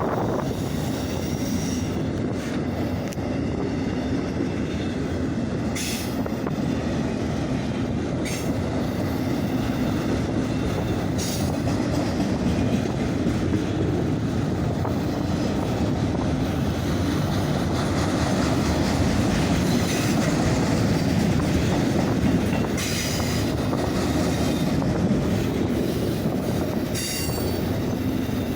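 Autorack freight cars rolling steadily past on the rails with a continuous rumble of wheels. Brief high-pitched wheel squeals come every few seconds.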